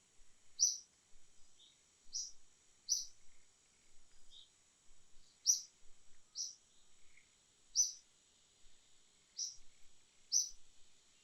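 A small bird chirping: short, high chirps repeating roughly once a second, over a steady high-pitched insect drone.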